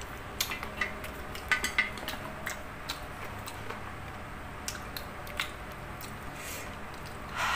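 Close-up chewing of crispy fried food: scattered sharp crunches and clicks, most of them in the first two seconds, thinning out after.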